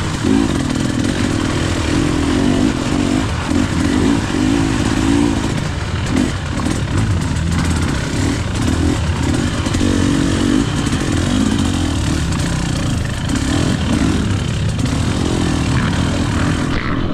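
KTM EXC 300 two-stroke enduro motorcycle engine revving up and down as the throttle is worked, its pitch repeatedly rising and falling.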